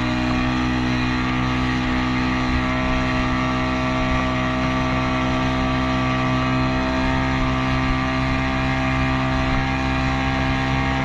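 Motorboat engine running at a steady speed, a constant droning hum.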